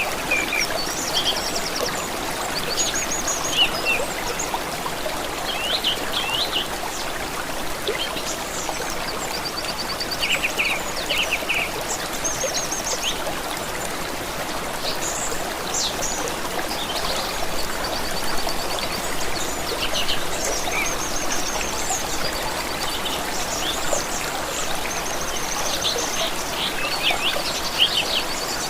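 Stream of running water, a steady rushing, with several small birds singing over it in short chirps and quick trills throughout.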